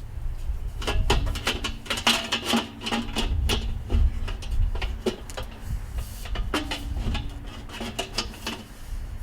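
Sheet-steel parts of a Weber kettle grill clanking and rattling as they are handled and fitted together: a quick run of metal knocks and clicks, several of them ringing briefly.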